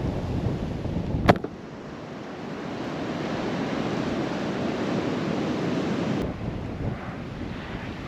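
Wind buffeting the microphone, a heavy low rumble, cut by a sharp click about a second in; afterwards the wind noise is lighter and steadier, with another faint click near the end.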